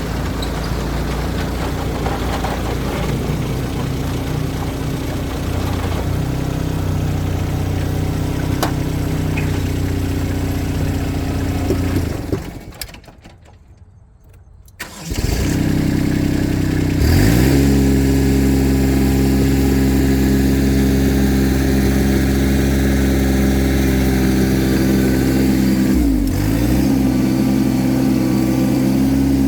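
Tractor engine running steadily while working the soil. About twelve seconds in it dies away to almost nothing for a couple of seconds, then starts again, revs up and settles back into a steady run, with a brief dip in pitch near the end.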